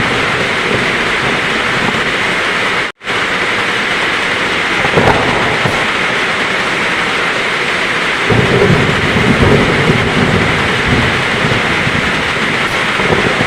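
Heavy rain falling steadily in a thunderstorm, with thunder rumbling low from about eight seconds in. The audio cuts out completely for a split second about three seconds in.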